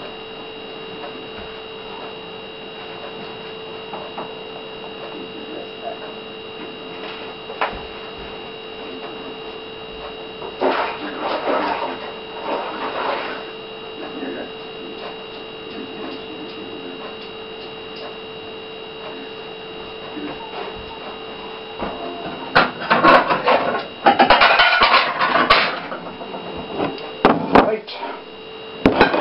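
Kitchen handling noises over a steady electrical whine: scattered clicks, then bursts of clattering and rustling, loudest near the end, as a plate and a knife are fetched from cupboards and drawers.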